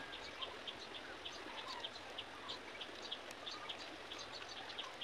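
Small birds chirping: many short, high chirps, a few each second and irregularly spaced, over a faint steady hiss.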